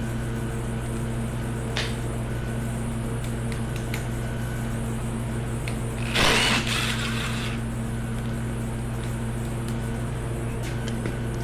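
A steady electrical hum, with a few faint clicks and one short, loud burst of noise about six seconds in, typical of a brief spin of a power tool.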